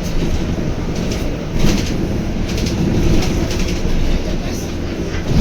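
Scania K230UB bus with a DC9 five-cylinder diesel engine, heard from inside the cabin: a steady low engine and road rumble with frequent light clicks and rattles from the body and fittings.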